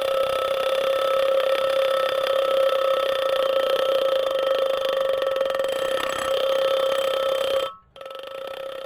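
A loud, steady, unwavering high tone with overtones. It cuts out for a moment near the end and comes back quieter.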